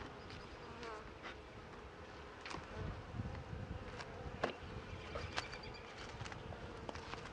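Italian honeybees buzzing steadily around an open Langstroth hive during an inspection, with a few sharp clicks and knocks, the loudest about halfway through.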